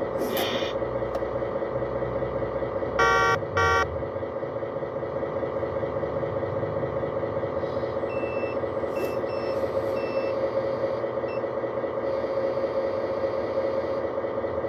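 Heavy earthmoving machine's engine running steadily, broken by two short horn blasts about three seconds in. Faint short high beeps come and go in the second half.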